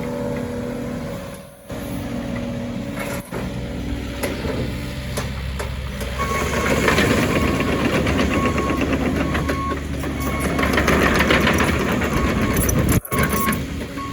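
Caterpillar 308E2 CR mini excavator's diesel engine running. From about six seconds in it gets louder, with clattering and a short beeping alarm about once every three-quarters of a second.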